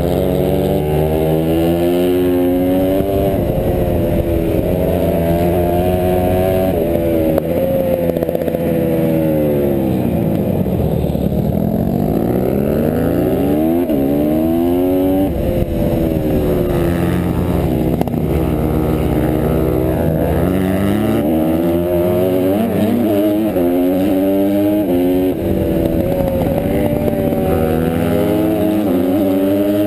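Honda CRF150R pit bike's four-stroke single-cylinder engine racing hard, its revs climbing and dropping back over and over through gear changes and corners.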